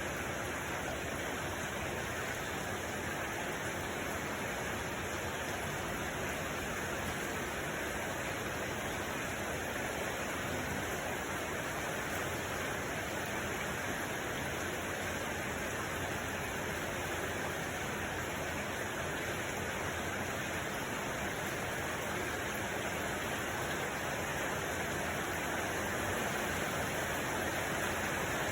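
Steady, unchanging rushing noise spread evenly from low to high pitches, with no separate events.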